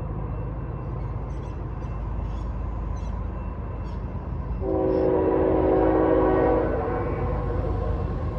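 Train horn sounding one blast of about two seconds, a chord of several notes, starting about halfway through, over the steady low rumble of the train.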